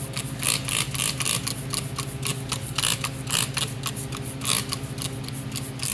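Trigger spray bottle of Mean Green degreaser being pumped repeatedly, a quick run of short hissing squirts, about two or three a second, over a steady low hum.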